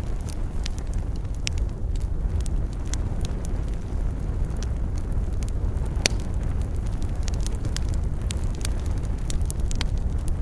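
Wood campfire burning: a steady low rumble of flames with irregular crackles and snaps of burning wood, one louder pop about six seconds in.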